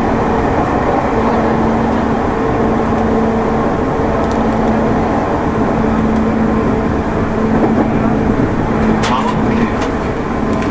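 Running noise inside a JR 205 series (600 subseries) electric commuter train car at steady speed: a dense, even rumble of wheels on rail with a constant hum of unchanging pitch. A few sharp clicks sound about nine seconds in.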